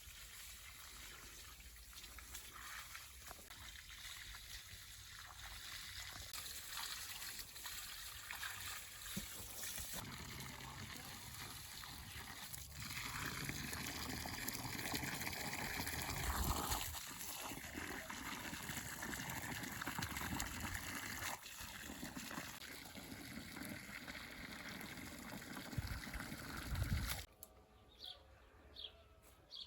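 Water trickling and splashing steadily, stopping abruptly near the end, followed by a few short bird chirps.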